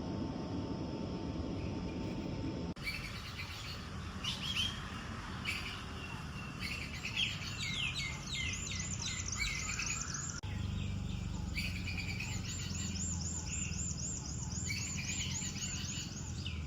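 Birds singing and calling, with clear whistled notes and fast repeated trills, over a steady low background noise. The first few seconds hold only the low steady noise before the birdsong starts.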